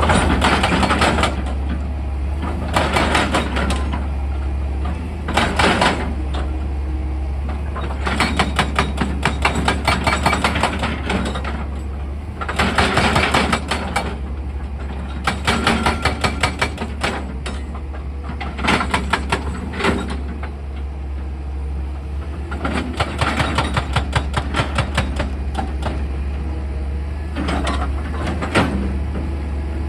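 Heavy excavator's diesel engine running with a steady low hum, broken by about nine bursts of rapid percussive drilling into rock, each lasting one to three seconds.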